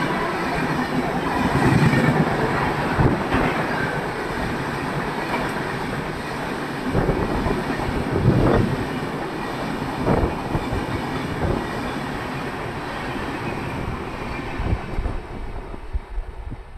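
Express passenger coaches of an Indian Railways train rushing past at speed, a steady heavy rolling noise with repeated sharp clacks as the wheels cross rail joints.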